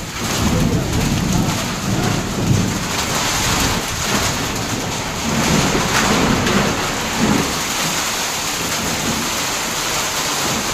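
Heavy rain pouring down in a wind-driven storm: a steady hiss of rain with uneven low rumbles coming and going through it.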